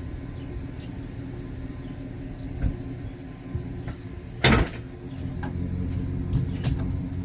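Pickup truck engine idling steadily, with a few light clicks and one loud, sharp thump about halfway through.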